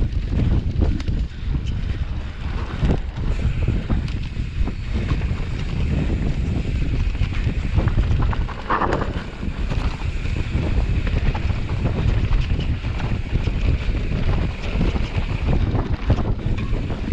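Wind buffeting the microphone: a continuous, gusty low rumble, with a brief louder sound about nine seconds in.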